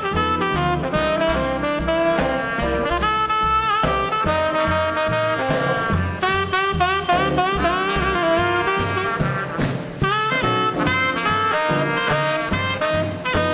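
Small-group swing band playing live: saxophone and trumpet melody lines over a steady walking bass, with piano and drums.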